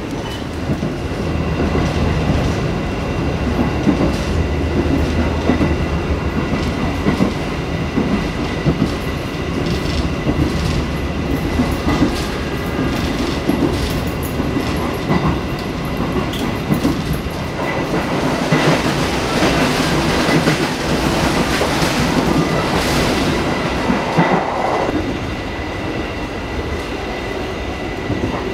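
Passenger train running, heard from inside an executive coach: a continuous rumble of wheels on the rails with frequent clicks, under a thin steady whine. It grows louder and brighter for several seconds about two-thirds of the way through.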